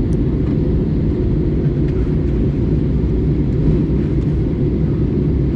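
Steady low rumble of an Airbus A320-200 airliner heard from inside the cabin in flight: engine and airflow noise.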